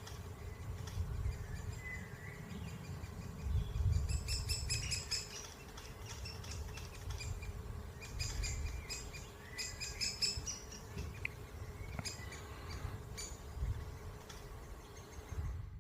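High, rapid chirping calls in series, in two longer bursts about four and eight seconds in, with single chirps between: great spotted woodpecker fledglings calling from the nest hole. A low rumble runs underneath.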